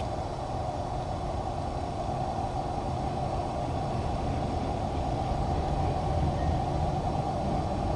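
Loaded CSX autorack freight train rolling past, a steady rumble of its cars on the rails as it slows.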